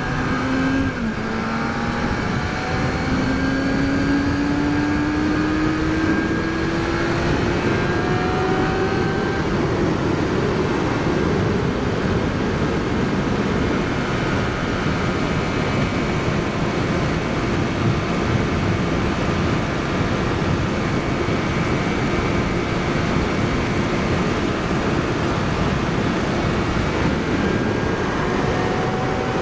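Kawasaki Ninja ZX-6R 636 inline-four sport bike engine pulling steadily, its pitch rising slowly over the first ten seconds and then cruising at a steady speed, with a slight rise near the end. A constant rush of riding wind on the microphone runs under the engine.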